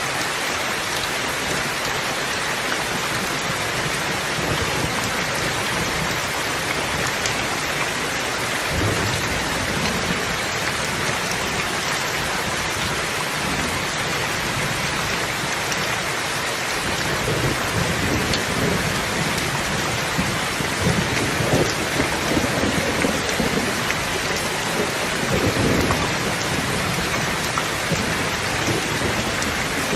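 Steady heavy rain hissing on surfaces, with low thunder rumbling in the background a few times, most in the second half.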